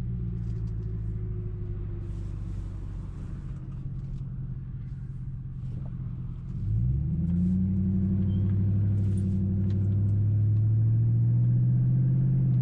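2005 Mercury Grand Marquis 4.6-litre V8 heard through a muffler-delete exhaust (catalytic converters and H-pipe only) while driving: a steady low exhaust rumble, then about halfway through the throttle opens and the note climbs quickly in pitch and gets louder, holding there as the car pulls along.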